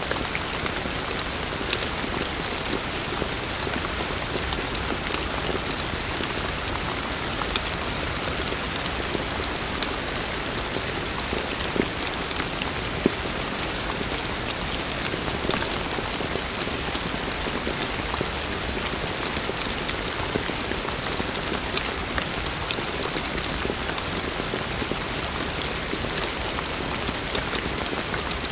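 Heavy rain falling steadily, a dense even hiss of rain with many sharp individual drop hits, a few of them louder.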